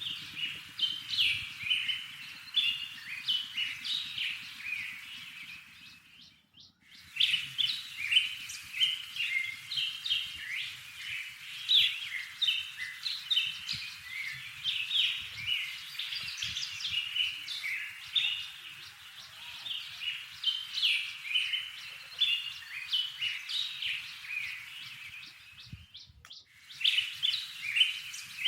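Backyard songbirds chirping and twittering in a dense, continuous chorus of short, high notes, with two brief breaks, about six seconds in and near the end.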